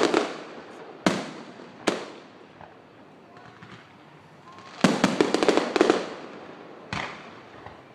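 Aerial fireworks shells bursting overhead: a few single booms in the first two seconds, a dense salvo of rapid cracks about five seconds in, and another boom about seven seconds in, each trailing off in echo.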